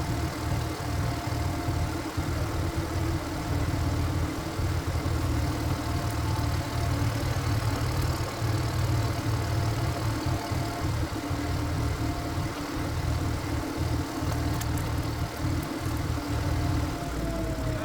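Power tiller's single-cylinder diesel engine running steadily, with a thin tone that starts sliding down in pitch near the end.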